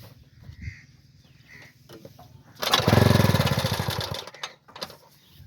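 Old Ruston Hornsby diesel engine on a cold start: after a few faint knocks, it catches about two and a half seconds in with a loud burst of rapid exhaust beats, then fades out within under two seconds without keeping running.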